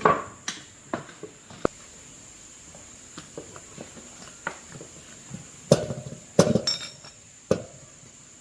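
Small hard objects being knocked and set down: scattered light clicks, then three louder knocks in the second half.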